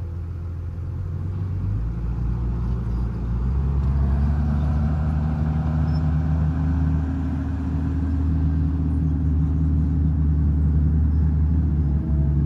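Heavy diesel engine of earthmoving machinery running low, then revving up in two steps in the first few seconds and holding at the higher speed, louder, as under working load.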